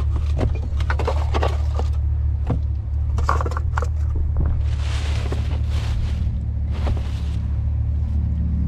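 Rummaging through trash: scattered rustles, scrapes and clicks of items being handled and moved, over a steady low rumble.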